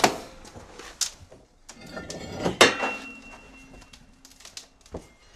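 Metal parts being handled and moved about: a few sharp clanks and knocks with rustling in between. The loudest clank, about halfway through, leaves a short metallic ring.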